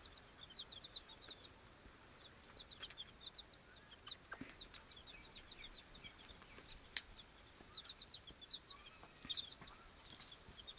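Domestic chicks peeping in quick runs of short, high cheeps, with a few sharp clicks in between.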